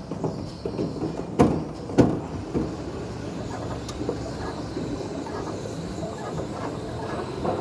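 Go-kart rumbling and rattling along the track, with two sharp knocks about half a second apart, about a second and a half in.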